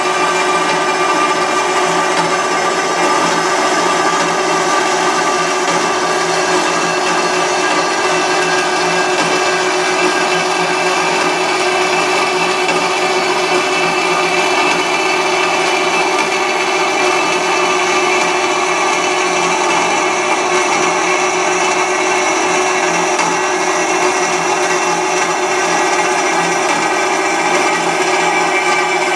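Harbor Freight electric metal-cutting saw running steadily through a cut in a piece of steel, a loud even whine with no pauses.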